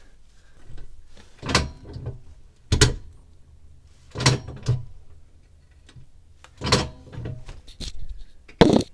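Steel axle stand being placed and ratcheted up under the car: five separate metallic clanks and knocks, a second or two apart, some of them doubled.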